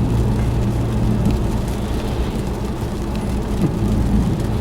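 Steady drone of a car driving, heard from inside the cabin, with the hiss of tyres running through water on a rain-soaked road.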